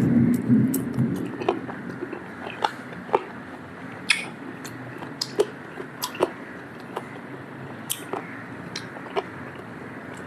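A person biting and chewing grilled chicken BBQ. The heavier bites come in the first second, then come irregular small clicks and smacks of chewing.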